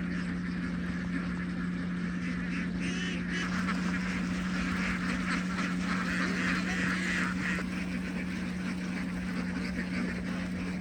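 A large flock of domestic ducks quacking and honking together in a continuous din, over a steady low drone.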